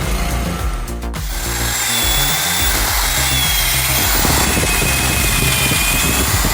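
A power tool or machine running steadily over background music, with a sudden change about a second in.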